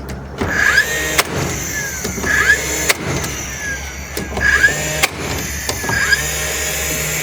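Staple gun firing into coop boards, a sharp shot about every two seconds, over a steady low motor hum.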